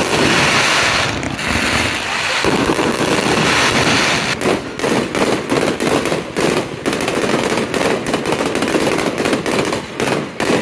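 Aerial fireworks bursting overhead: first a dense, continuous crackle of glittering stars, then from about four seconds in a rapid run of sharp pops and crackles.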